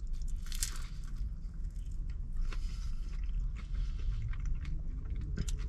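A person chewing a mouthful of deep-fried vegetable spring roll, with faint crunching and wet mouth sounds and small clicks.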